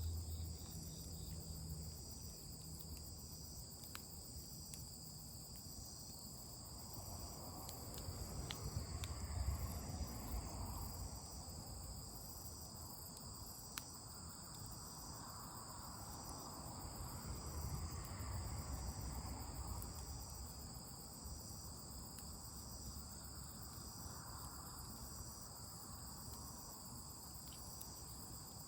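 Insects chirping in a steady, high-pitched pulsing chorus. A few faint sharp clicks sound over it, and a low rumble swells twice.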